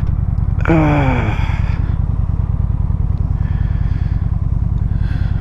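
Motorcycle engine running steadily while riding, a low even rumble throughout. About a second in, a loud pitched sound slides down in pitch over roughly a second.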